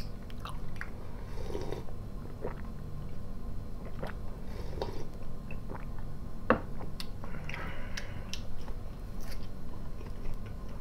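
Close-miked chewing and mouth noises of someone eating, with a sip of tea near the start and scattered small clicks, over a low steady hum.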